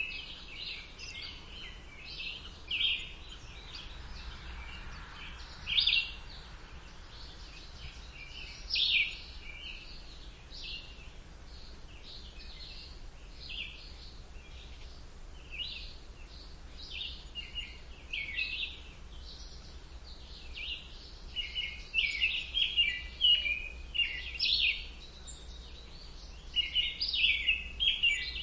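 Several songbirds chirping and trilling, short high calls coming one after another, thicker and louder near the end, over a faint low background hum.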